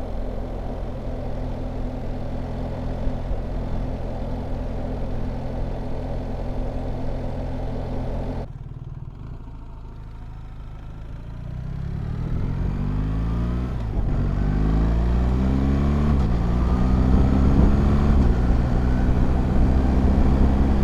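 BMW R1300GS boxer-twin engine running steadily at cruise with wind noise. About eight seconds in the sound drops suddenly to a quieter low note, then from about eleven seconds the bike pulls away, its pitch rising through several gear changes.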